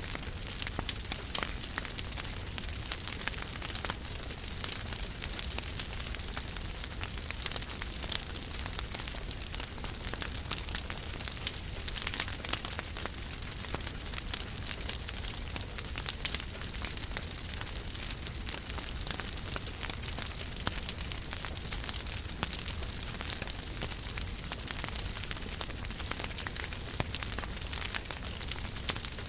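Fireplace fire crackling steadily: a dense patter of small crackles over a soft hiss, with a few louder pops scattered through.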